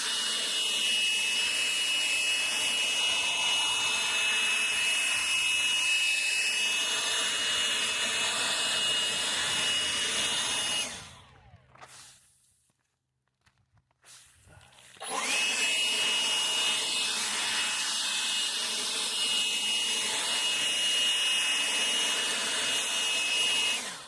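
Electric leaf blower running with a steady high whine while blowing debris off a roof; it cuts off about eleven seconds in and starts straight back up at full speed a few seconds later.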